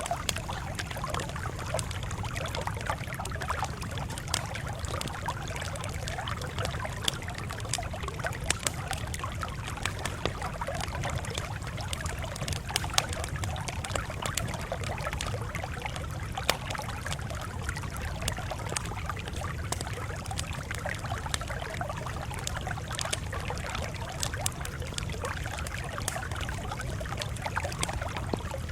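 Campfire crackling: a steady hiss of burning wood with many small sharp pops and snaps scattered irregularly throughout, over a steady low rumble.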